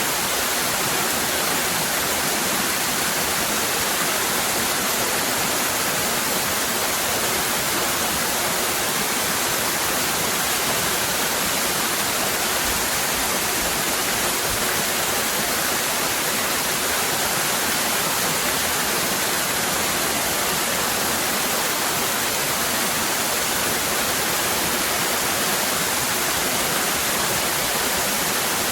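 Waterfall cascading steadily: a constant, even rush of falling water, brighter in the higher pitches, with no change throughout.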